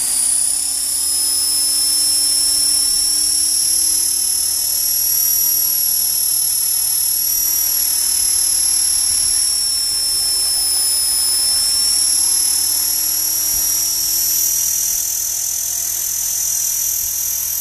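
HK450 electric RC helicopter running, its brushless motor and rotor giving a loud, steady high-pitched whine whose pitch drifts slightly up and down.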